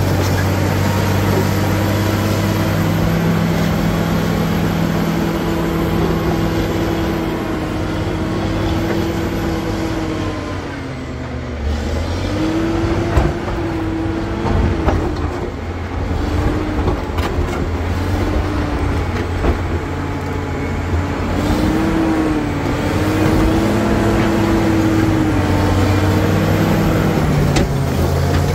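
Caterpillar D7G bulldozer's six-cylinder diesel engine running hard under load, its pitch sagging sharply about halfway through and then recovering and wavering as the load changes. Scattered sharp knocks and clanks come in the second half.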